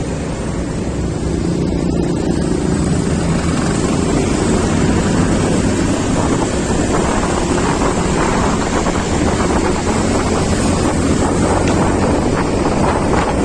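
Heavy wind buffeting the microphone on a moving vehicle, over steady engine and road noise.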